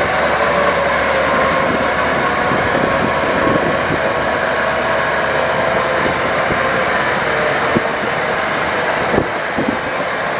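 Heavy diesel earthmoving machinery running steadily under load, with a faint wavering whine over the engine and a couple of sharp clanks near the end.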